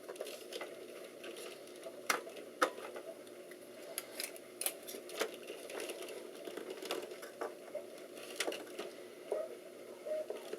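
Irregular clicks and taps of RAM modules being handled and pushed into a desktop computer's memory slots, over a steady hum.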